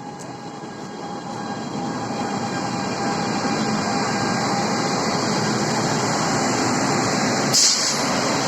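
Passenger train coming along the platform, its rumble growing louder over the first few seconds and then holding steady, with a short hiss near the end.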